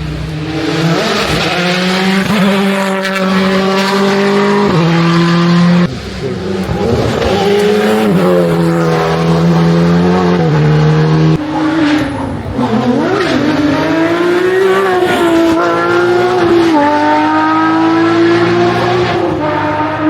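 Rally cars at speed on a stage, engines revving hard and dropping in pitch through gear changes, with short engine breaks between one car and the next.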